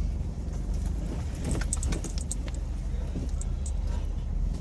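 Jeep engine running low, heard inside the cab, with a few light clinks and rattles about one and a half to two and a half seconds in.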